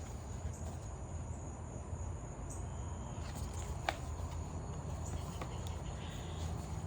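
Faint evening insects, crickets, chirping over a low steady hum, with a single click about four seconds in.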